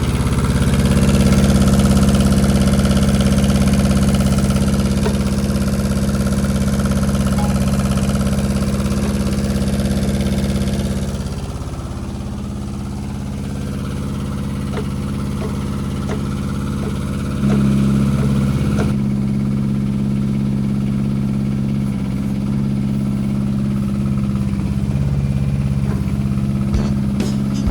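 Kubota KH-007 mini excavator's diesel engine running steadily. It eases off about twelve seconds in and rises again abruptly a few seconds later.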